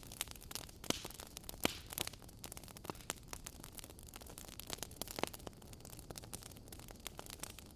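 Fire crackling in a fireplace: a steady scatter of small pops and snaps over a soft hiss, with a few louder pops.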